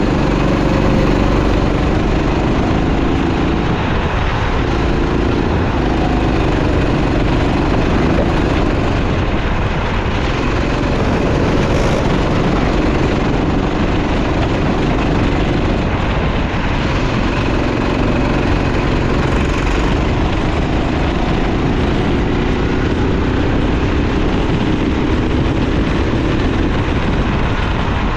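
Racing kart engine running under load on track, its pitch rising and falling repeatedly as the driver accelerates and lifts through corners.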